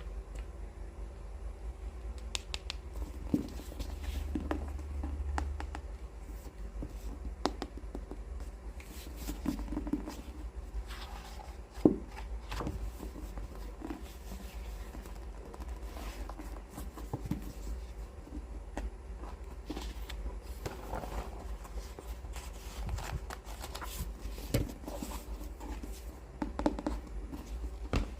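Fingertips tapping and scratching on books, with irregular light taps and rustles and one sharper knock about twelve seconds in, over a steady low hum.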